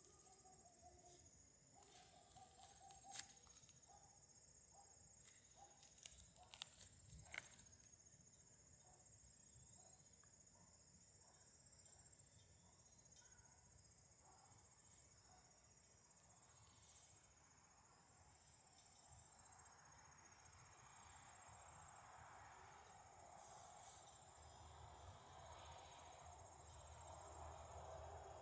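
Crickets chirring in a steady, high-pitched, unbroken trill, faint overall. A few sharp clicks come in the first third, and a soft rushing of breeze builds over the last ten seconds.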